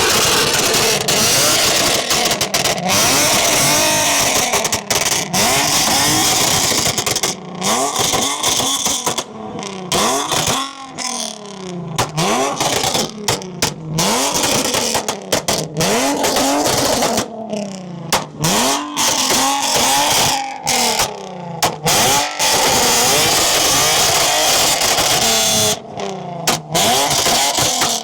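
Car engines revved hard again and again, the pitch rising and falling about once a second. The loud sound keeps cutting out for split seconds, as if the overloaded microphone is failing.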